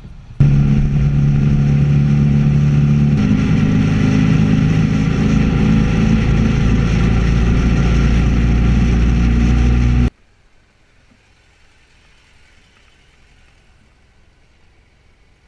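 Motorcycle engine running at a steady speed while riding, starting abruptly and shifting pitch slightly about three seconds in. It cuts off suddenly about ten seconds in, leaving a faint low hiss.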